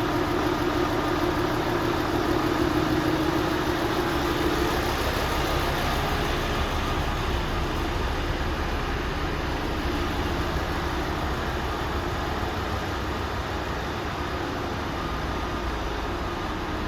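Scania P250 lorry's diesel engine idling steadily.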